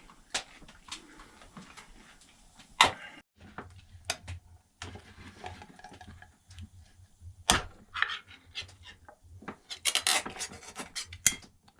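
Kitchen handling while a can of green peas is got open: scattered sharp clicks and knocks with light rubbing, two louder single knocks about three and seven seconds in, and a quick run of clicks near the end.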